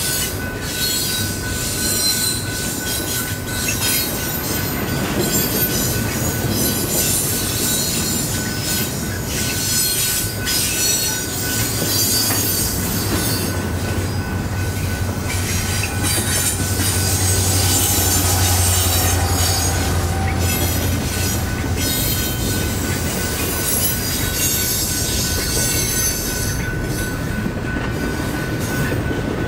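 Double-stack intermodal freight cars rolling past, with steel wheels squealing and clacking over the rails and a steady rumble that swells louder in the middle.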